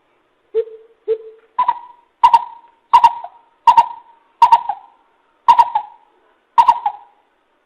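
Coucal calling a series of deep hooting notes, about one every 0.7 seconds: the first two are lower, then the notes step up in pitch and hold there for the rest of the series.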